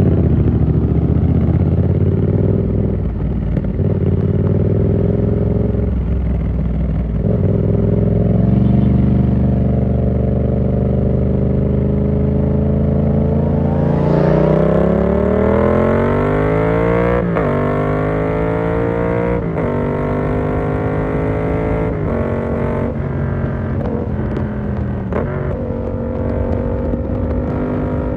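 Yamaha MT-07's parallel-twin engine through an SC-Project exhaust with the dB-killer fitted, ridden at a fairly steady engine speed, then accelerating hard from about halfway. The revs climb and drop back at each of several quick upshifts.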